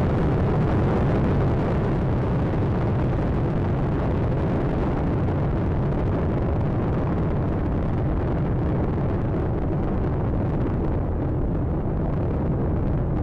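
Space Shuttle Atlantis climbing shortly after liftoff: its main engines and solid rocket boosters make a dense, steady low rumble, the higher hiss thinning toward the end.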